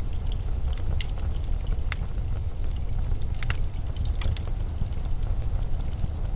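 Blizzard wind rumbling low and steady, with scattered small crackles and ticks over it.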